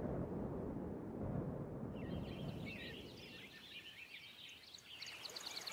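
A low rumble that dies away over the first two seconds, then birds chirping, with many short calls and a quick trill near the end.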